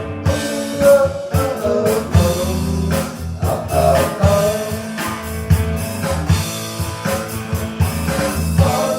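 Rock band playing an instrumental passage: electric guitar, bass and drums with a steady beat.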